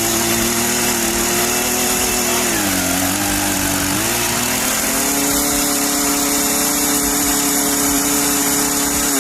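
A small engine running steadily. Its pitch dips for about a second, a few seconds in, then settles a little higher than before.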